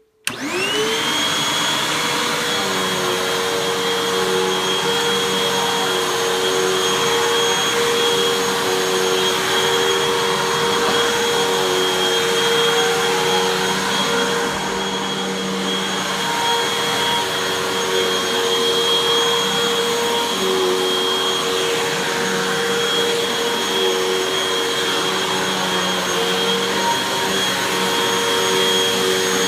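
Hoover WindTunnel 2 Rewind Pet upright vacuum cleaner switched on, its motor whine rising to speed within the first second, then running steadily as it vacuums carpet.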